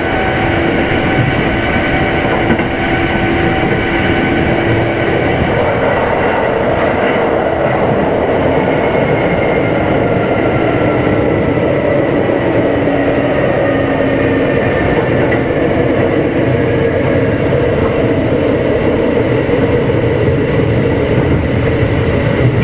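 Running sound inside a Kintetsu 2610 series motor car: a steady rumble of wheels on rail with whining tones from the running gear. The tones fall slowly in pitch through the second half as the train slows.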